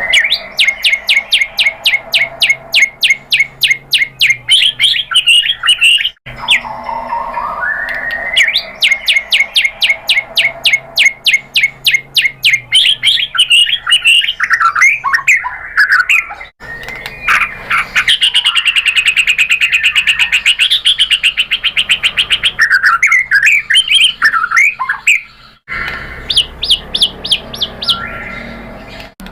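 White-rumped shama (murai batu) singing loudly: long runs of fast repeated sharp notes and rapid trills, with a rising glide about seven seconds in. The song breaks off abruptly three times and restarts at once, as between joined recordings.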